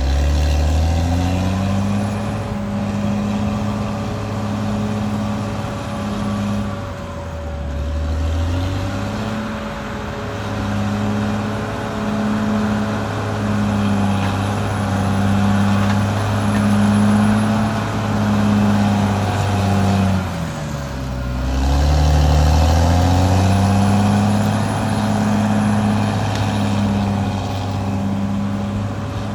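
Caterpillar D6R XL bulldozer's diesel engine running hard. Its note drops sharply twice, about a quarter of the way in and again about two-thirds in, and each time climbs back up. A steady high whine runs alongside the engine.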